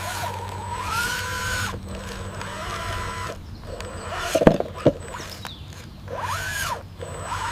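Small electric motor whirring, rising and falling in pitch as it speeds up and slows down, with two sharp knocks midway.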